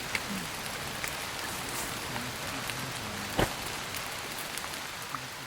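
Steady rain falling, with scattered drop ticks and one louder tap about three and a half seconds in.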